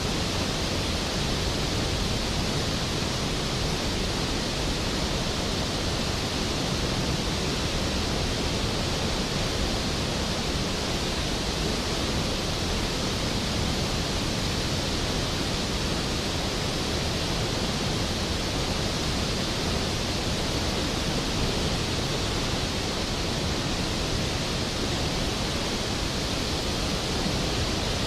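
Skógafoss waterfall, a large waterfall plunging into its pool: a steady, dense rush of falling water that does not change.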